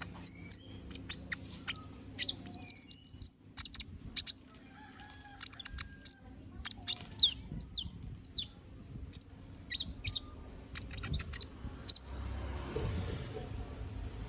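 A kolibri ninja sunbird (konin) singing a fast, varied song of sharp high chirps, clicks and short whistled slurs. This is the full run of mimicked phrases that keepers call 'bongkar isian'. The song stops about twelve seconds in, giving way to a low rustling.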